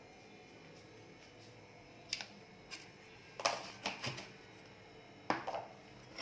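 A handful of sharp clicks and knocks of kitchen utensils against a bowl, scattered and irregular, the loudest about halfway through.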